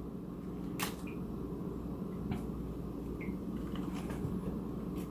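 Steady low room hum, with a few faint, sharp clicks and rustles from lettuce leaves being handled for the sandwich.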